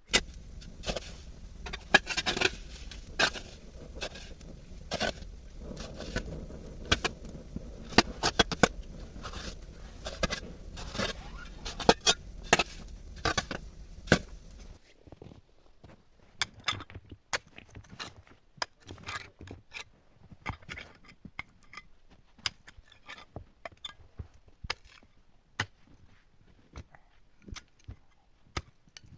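Irregular knocks, clicks and scrapes of hands-on work, over a low rumble that cuts off suddenly about halfway through; after that the clicks and knocks go on alone, sparser.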